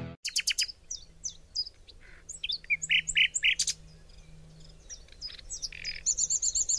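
Small birds chirping: scattered short, high notes and quick glides, with a rapid trill of repeated notes near the end.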